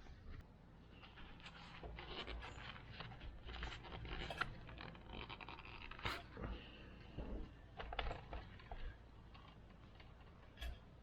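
Hand work on the front drum brake of a small motorcycle: irregular scraping and light clicks of metal parts being handled, with a few sharper knocks about six, eight and ten seconds in.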